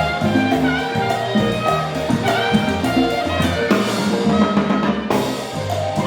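Afro-Cuban jazz (salsa) band playing: a walking bass line under drums and percussion, with brass led by trumpet.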